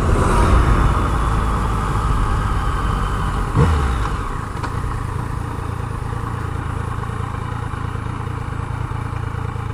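Yamaha MT-09 inline three-cylinder motorcycle engine running with wind noise over the rider's microphone, easing off and settling to a quieter, steady sound about four seconds in.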